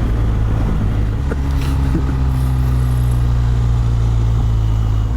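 Motorcycle engine running steadily under way at road speed, its note shifting slightly about a second in, with wind noise on the rider's microphone.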